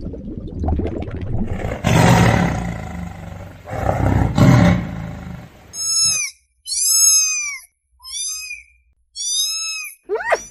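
Deep, rough roaring from a large wild animal, swelling twice. After about six seconds it gives way to four short, high-pitched calls, each rising and then falling in pitch, with silence between them.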